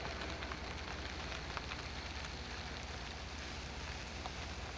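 A distant train approaching: a low, steady rumble under a crackling hiss, with faint scattered clicks.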